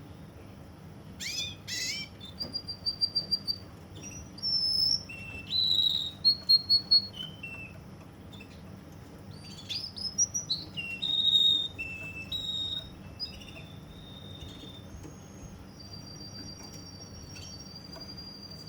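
Domestic canary (Russian singer) singing: quick trills and short whistled notes in varied phrases, moving into long, steady high notes in the last few seconds. A faint low hum runs underneath.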